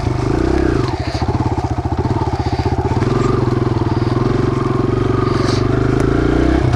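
A Kawasaki KLX140's small single-cylinder four-stroke engine running steadily under load as the dirt bike is ridden, dipping briefly about a second in.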